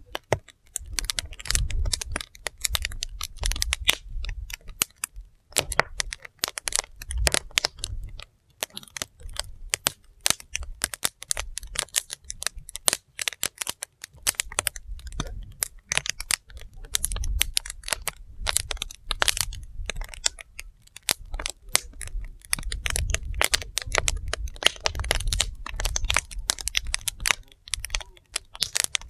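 Wood fire burning: dense, irregular crackling and popping of the burning logs, with low rumbling that swells and fades every few seconds.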